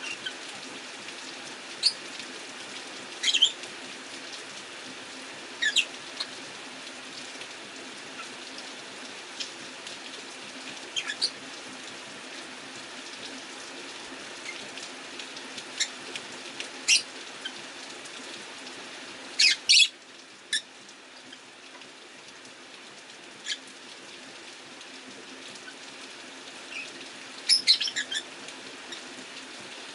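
Rosy-faced lovebirds giving short, high chirps every few seconds, with a few louder bursts of several calls in quick succession, over a steady hiss of rain.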